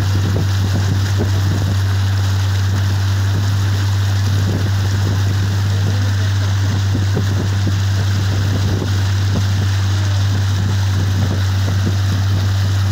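An engine running steadily at a constant speed, a deep unbroken hum, over an even rushing hiss.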